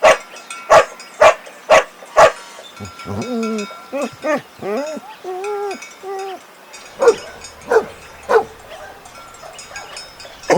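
A dog barking, five sharp barks about half a second apart, then a run of short whining yelps that rise and fall in pitch, then three more barks.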